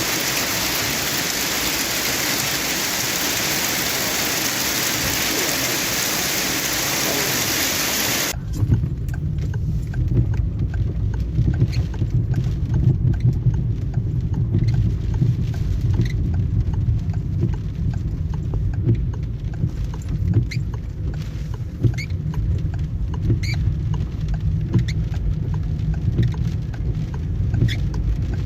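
Storm downpour: a steady, loud hiss of heavy falling precipitation. About eight seconds in it cuts off abruptly to a low rumble of wind buffeting the microphone, with many scattered sharp ticks of drops or hailstones striking close by.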